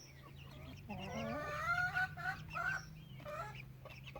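Backyard chickens clucking, a quick run of short calls after about a second.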